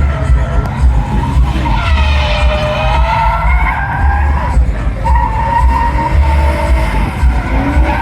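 Drift car tyres squealing in long wavering screeches, over the low throb of the engine, which rises in pitch near the end.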